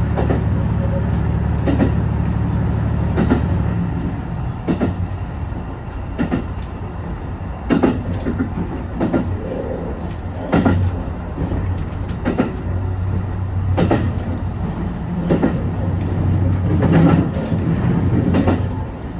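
HB-E210 hybrid diesel train running along the track. Its wheels click over rail joints about every one and a half seconds over a low, steady drive hum.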